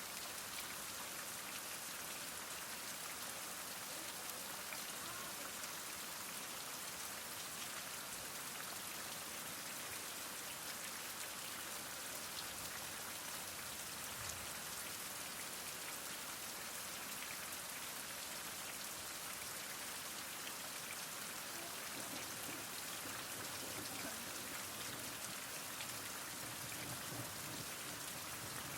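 Heavy rain falling steadily, an even hiss of drops with faint individual patters on surfaces.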